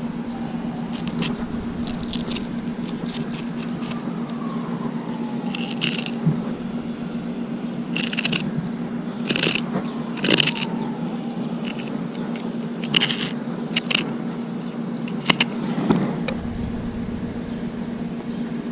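Fillet knife scraping and cutting through a trout, a series of short scraping strokes every second or so, over a steady low hum.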